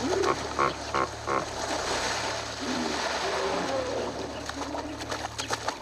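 Hippos grunting in a quick series of about four short calls near the start, over splashing water, with a steady low hum beneath that cuts off at the end.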